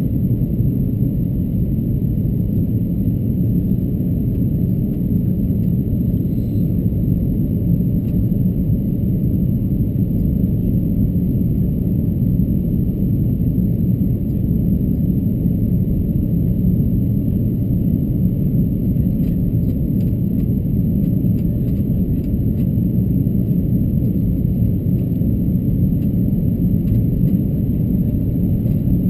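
Steady low rumble of an Airbus A330-223 heard from inside the cabin: engine and airflow noise holding even throughout, with no distinct events.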